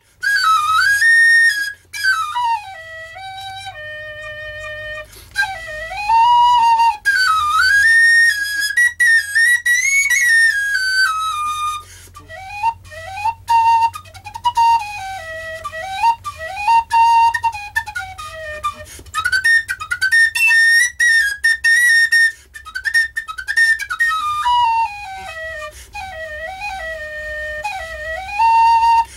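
Flute playing a melody in the Bhairav mode in Middle Eastern style, with phrases that slide and bend up and down, over a low steady drone.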